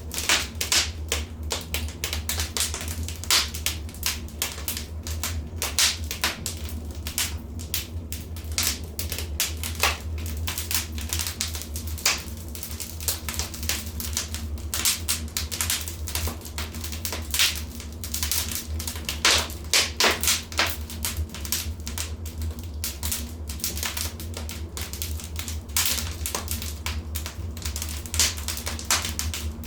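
Wood fire burning in a fireplace, crackling and popping in quick irregular snaps over a steady low rumble.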